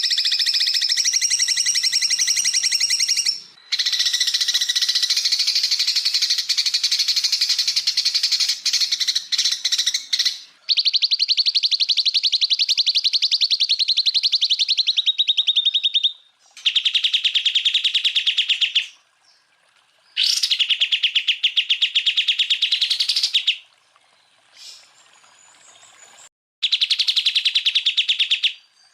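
Green leafbird (cucak ijo) singing long, high-pitched bursts of very rapid repeated notes, the rattling 'tembakan' trills, in about six phrases broken by short pauses.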